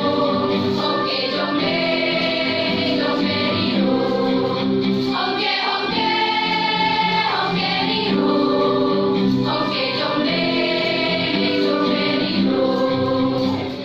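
A choir singing in parts, several voices holding sustained notes and moving between chords.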